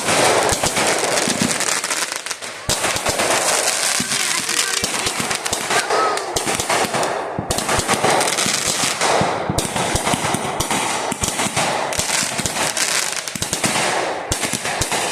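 A string of firecrackers going off, dozens of sharp pops per second in a continuous crackle with a few brief lulls.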